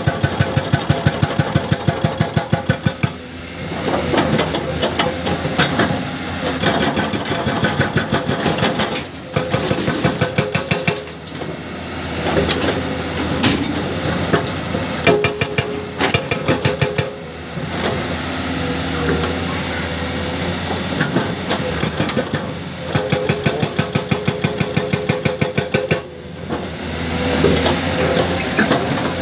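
Hydraulic breaker on a Komatsu PC210 excavator hammering rock in bursts of rapid, evenly spaced blows a few seconds long. Between the bursts the excavator's diesel engine runs on.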